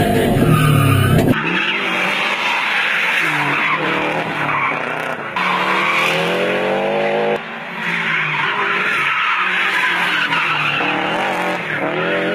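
Subaru Impreza WRX STI's turbocharged flat-four engine revving up and down repeatedly while its tyres squeal through drifts.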